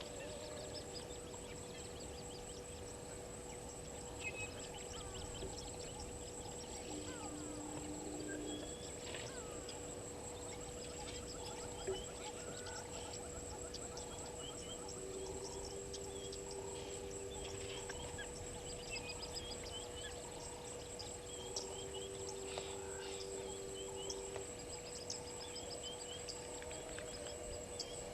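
Bush ambience at a waterhole: a steady high-pitched insect buzz with scattered short bird calls and chirps throughout, and a few held low notes of a few seconds each.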